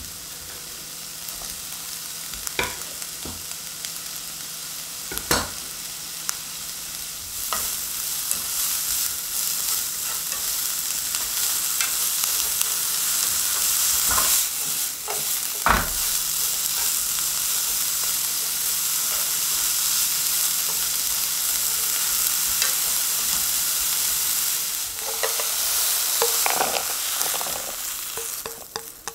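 Sliced green peppers sizzling in a nonstick frying pan as they are stir-fried with chopsticks; the hiss grows louder about seven seconds in, with a few sharp taps of the chopsticks against the pan. Near the end, clattering as the peppers are moved out of the pan into a bowl.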